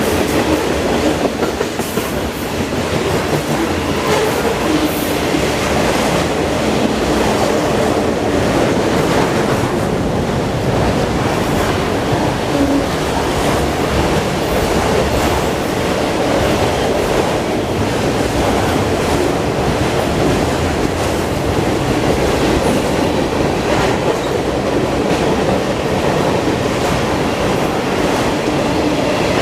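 CN train's rail cars rolling past at a steady level, the wheels running over the track without let-up.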